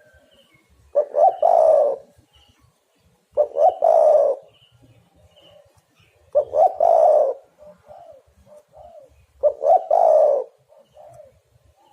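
Spotted dove cooing: four calls about three seconds apart, each two short notes followed by a longer coo, with softer short notes after the last two.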